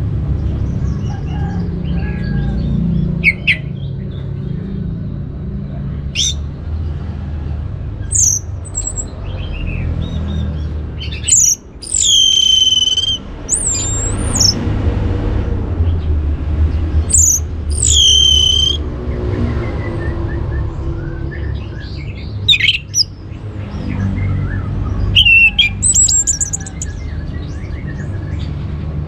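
Orange-headed thrush singing: varied, scattered whistled phrases of sweeping and held notes, the loudest about 12 and 18 seconds in, over a steady low rumble.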